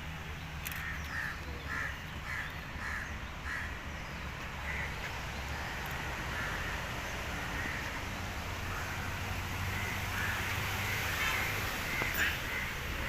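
Birds calling outdoors, one giving a run of short repeated calls about two a second in the first few seconds, with scattered calls later. A steady low rumble runs underneath.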